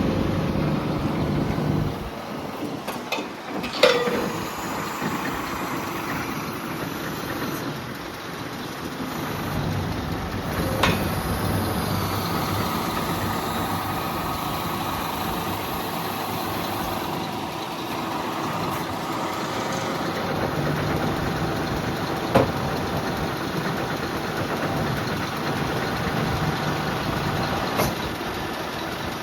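Scania P320 truck's diesel engine running steadily at idle, with a few sharp clunks now and then.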